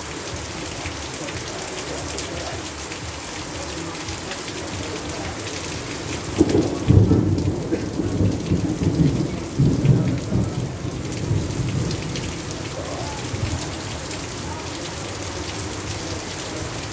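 Heavy rain falling steadily on grass and running off roof eaves. About six seconds in, a long roll of thunder rumbles over it for several seconds, then fades.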